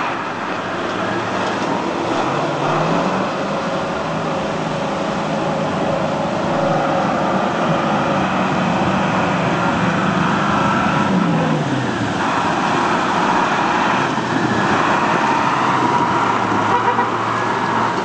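A motor vehicle's engine running under steady road and traffic noise. Its pitch rises about two and a half seconds in, holds, then falls again about eleven seconds in.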